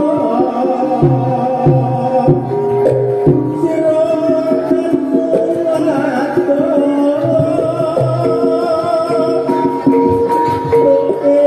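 Javanese gamelan music for a horse-dance (jathilan) troupe: held, stepping melodic notes with hand-drum strokes and a singing voice.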